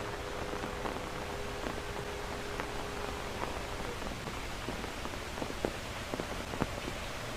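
Steady rain falling, with scattered drops ticking sharply close by, more often in the second half.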